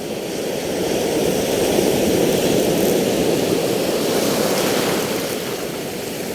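Spinning fishing reel being cranked steadily while a hooked fish is played in, a continuous whirring that grows louder about a second in and eases off near the end.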